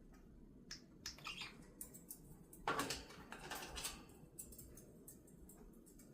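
Faint scattered chirps of small backyard birds, with one louder, rougher sound about three seconds in.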